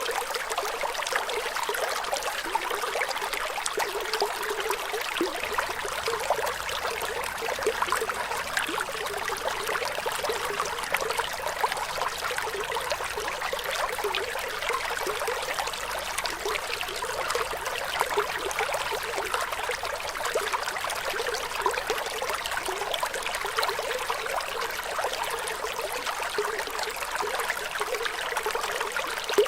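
Flowing water trickling and bubbling steadily, with no pauses, its sound mostly bright with little low rumble.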